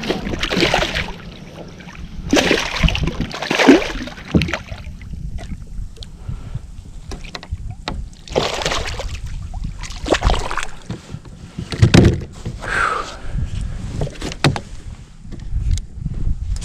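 Water splashing and sloshing against a fishing kayak, with knocks and clicks on the hull, in a series of bursts about a second long.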